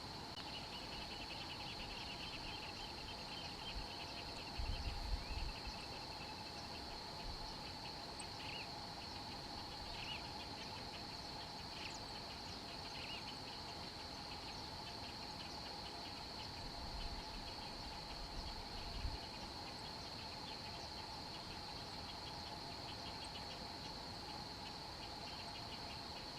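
Insect chorus in the forest: a steady high-pitched ringing over a lower steady drone, with a rapid pulsing trill throughout. A few brief low thumps come about five seconds in and again near nineteen seconds.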